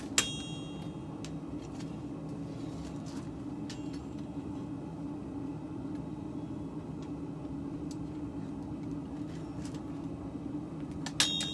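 Steel ringing under hammer blows: one strike just after the start and a few more near the end, over a steady low hum.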